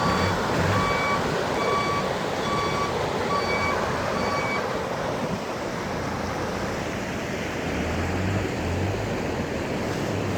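Steady rush of heavy rain and running water, with a vehicle's electronic warning beeps sounding about six times, evenly spaced, and stopping about four and a half seconds in. A low engine hum comes in near the end.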